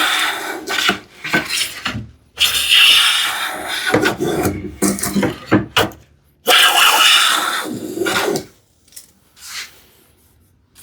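Hand plane shaving along the long edge of a solid cherry panel: three long strokes of a couple of seconds or more each, then a couple of brief faint sounds near the end.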